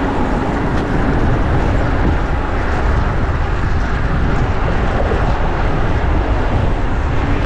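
Wind rushing over an action camera's microphone while riding a bicycle through city traffic: a steady, loud rush that flutters in the bass, with street traffic mixed in.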